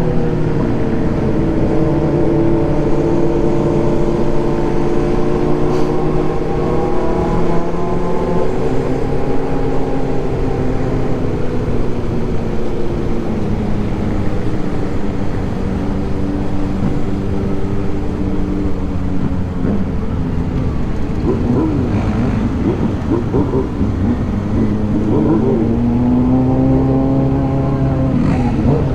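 Motorcycle engine running under way, its pitch slowly falling and rising with throttle and speed. Near the end it climbs steadily, then drops sharply as if on a gear change.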